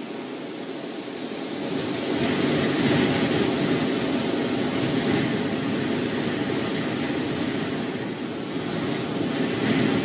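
Strong wind gusting over an outdoor microphone: a steady rushing noise that swells about two seconds in and again near the end.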